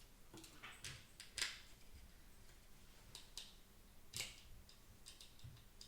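Faint, scattered light clicks and taps of small plastic parts and tools being handled while a computer mouse is taken apart. The sharpest click comes about a second and a half in, another around four seconds.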